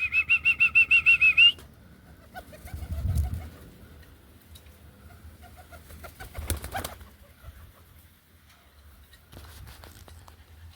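A loud trilling whistle for about a second and a half, used to call young pigeons back to the loft. It is followed by fainter wing flutters and scattered knocks.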